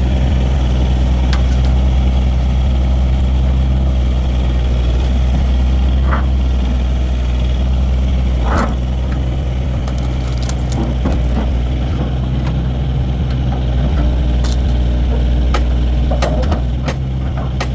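A vehicle engine idling steadily, with scattered light clicks and knocks over it.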